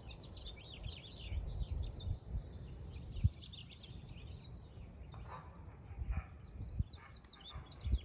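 Birds chirping and calling over a gusty low rumble, with a brief knock about three seconds in.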